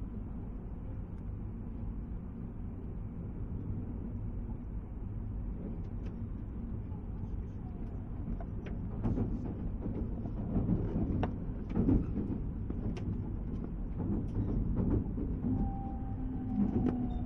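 Running noise inside an E2-series Shinkansen motor car (E225): a steady low rumble, with short clattering knocks from about halfway. Near the end a steady electric whine comes in, from the car's Siemens-Toshiba GTO-VVVF traction drive.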